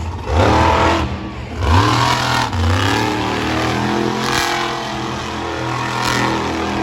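Monster truck engine revved hard twice in quick succession, its pitch climbing each time, then held at steady high revs.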